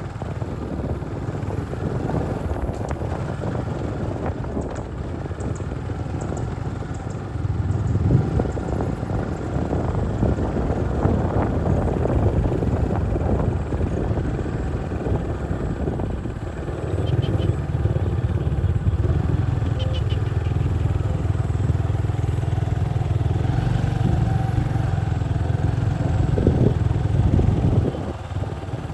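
Small motorcycle engine running steadily while riding, growing louder about a quarter of the way in and again a little past the middle.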